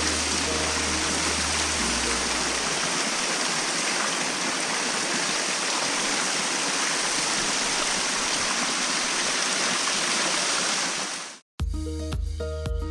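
Steady rushing of running water, which fades out about eleven seconds in; a music track begins just after.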